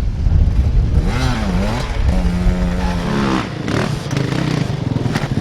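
Dirt bike engine revving. Its pitch rises and falls about a second in and holds high for a moment, then drops back to a low, rapidly pulsing run near the end.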